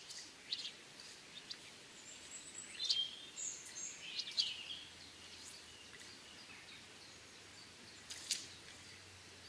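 Small birds chirping and calling in short high notes, busiest a few seconds in and again near the end, over a faint steady background.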